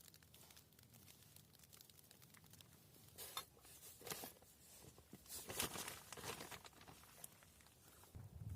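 Faint light pattering ticks, then a few brief crinkling, rustling sounds between about three and seven seconds in.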